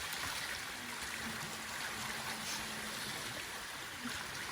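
Seawater washing steadily over the rocks of a lava-rock shore.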